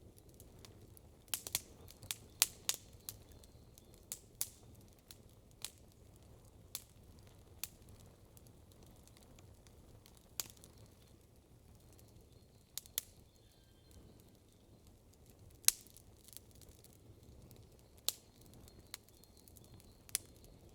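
Wood campfire crackling: sharp snaps and pops at irregular intervals, several in a quick run a second or two in, then sparser, over a faint low hiss.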